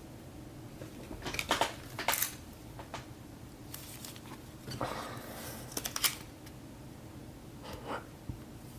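Trading card packs and box being handled: short crinkles, rustles and light clicks of foil wrappers and cardboard, with a longer rustle near the middle.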